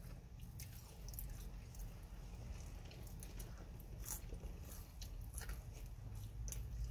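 Close-up mouth sounds of a person chewing waffle fries, with scattered faint clicks over a steady low hum.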